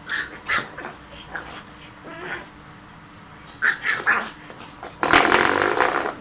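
A dog giving short, sharp yelps and barks, followed about five seconds in by a longer, louder noisy sound.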